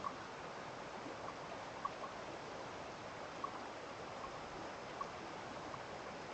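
Running water: a steady rushing hiss with small plinks at uneven intervals, about one a second.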